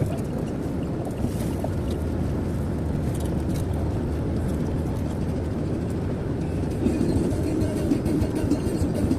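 Steady drone of road and engine noise inside a moving car's cabin at highway speed. It gets a little louder from about seven seconds in.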